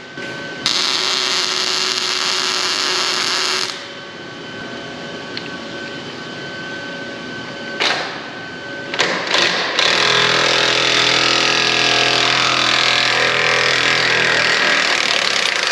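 Electric welder arc crackling in bursts as a bolt is welded onto a seized leaf-spring hanger sleeve to free it: one long burst of about three seconds, two short tacks, then a longer weld of about five seconds.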